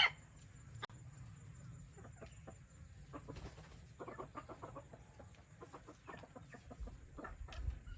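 Hybrid junglefowl chickens clucking faintly in short runs of quick notes, starting about four seconds in and again near the end.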